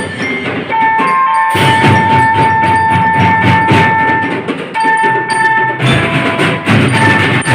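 School drum band playing: a dense drum beat under a melody of held notes.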